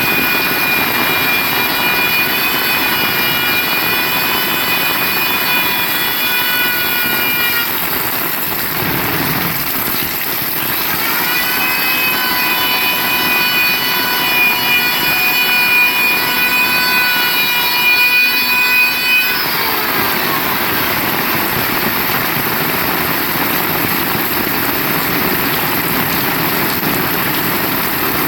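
Heavy rain falling steadily. Over it a motor whines at a steady high pitch twice: once for the first several seconds, and again later for about eight seconds, rising in pitch as it comes in and falling as it dies away.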